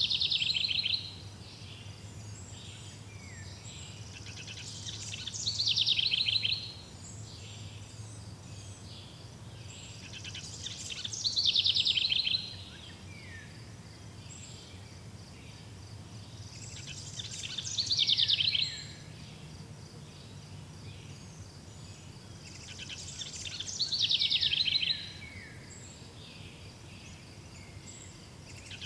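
A songbird sings the same short phrase about every six seconds, five times, each song lasting over a second and ending in falling notes. Under it, insects trill steadily and high.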